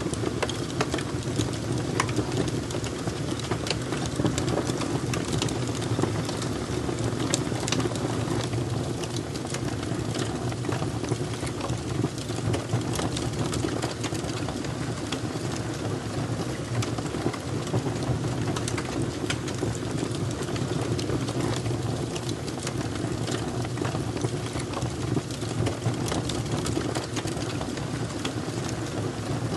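Fire crackling: a steady stream of irregular sharp pops and snaps over a constant low rumble.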